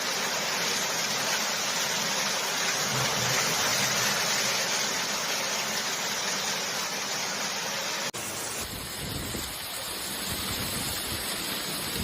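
Hail and rain pelting down in a dense, steady hiss. About eight seconds in it cuts abruptly to a quieter stretch of the downpour with some low rumbling.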